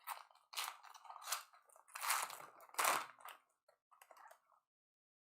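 Wrapper of a pack of football trading cards being torn open, several short crinkling rips over the first three seconds or so, with fainter handling noises after.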